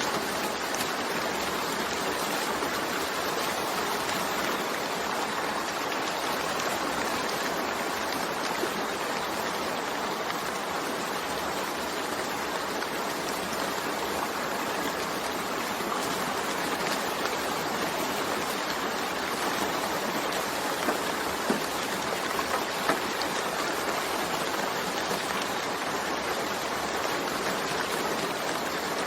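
Steady rain falling, an even hiss of many drops, with a few sharper single drop ticks about three-quarters of the way through.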